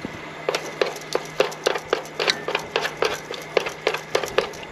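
Long cooking chopsticks tapping and scraping against a pan while breaking canned chicken into shreds: quick, irregular clicks, several a second.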